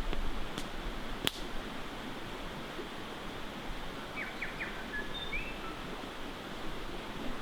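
Steady rushing of a river with a few sharp pops from a crackling wood campfire in the first second and a half. Short bird chirps come in about four to five seconds in.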